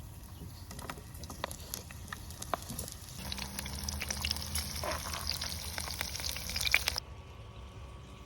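Food sizzling and crackling in a hot frying pan. It grows louder and busier about three seconds in, then cuts off abruptly about seven seconds in.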